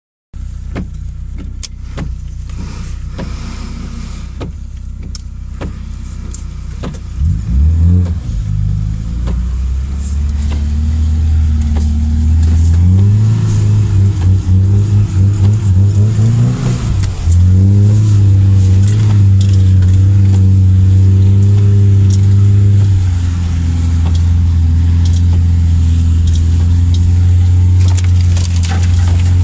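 Lada Niva's engine running under load while driving off-road, heard from inside the cabin. Its revs rise and fall through several changes in the first half, then hold steadier. Scattered knocks and rattles come through over it.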